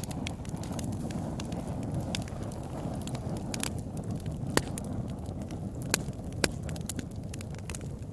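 Wood campfire burning: a steady low rush of flames under irregular sharp crackles and pops, a few of them louder, around the middle and later on.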